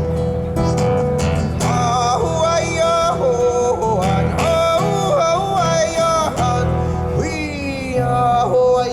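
Live performance of a traditional Taiwanese indigenous (Puyuma) song: a solo voice sings long, wavering held notes over guitar and a steady bass line. The voice enters about two seconds in and slides in pitch near the end.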